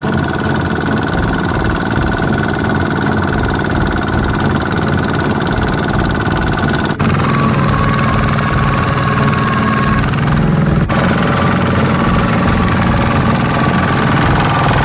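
Mini tractor engine running steadily. The sound changes abruptly twice, about 7 and 11 seconds in.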